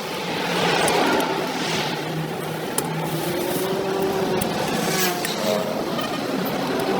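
Road traffic: vehicles passing along a highway, their tyre and engine noise swelling and fading several times over a steady engine hum.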